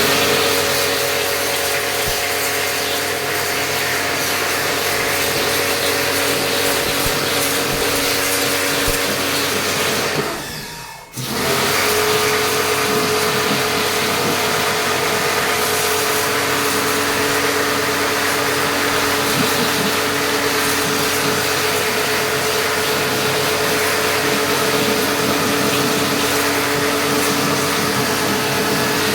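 An electric motor tool runs steadily with a held whine. It cuts out briefly about ten seconds in and starts up again a second later.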